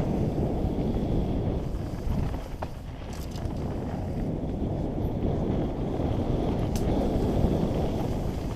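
Mountain bike descending a dirt trail: wind rushing over the microphone and tyres rolling over dirt in a steady rumbling noise, with a few sharp clicks and knocks from the bike.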